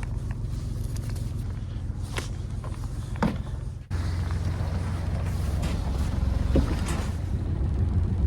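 Steady low engine rumble with a few scattered clicks and knocks; it breaks off abruptly about four seconds in and comes back a little stronger.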